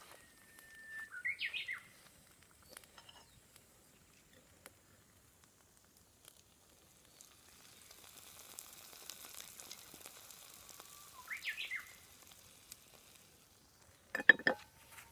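Food sizzling faintly in a pan, a bird calling twice, and a sharp, loud clatter near the end.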